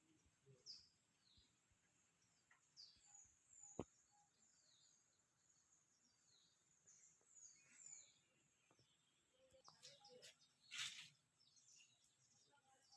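Faint, repeated bird chirps, each a short high note falling in pitch, over quiet rural ambience. A sharp click about four seconds in and a brief rustling burst near the end.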